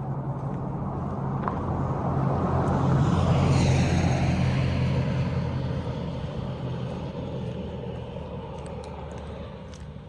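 A car driving past, its engine and tyre noise rising to a peak about four seconds in and then fading away as the pitch drops.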